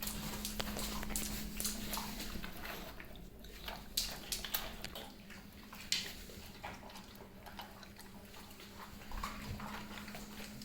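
Dogs eating from their bowls: irregular crunching and chewing of dry kibble mixed with fresh food, with sharp clicks of teeth and bowl.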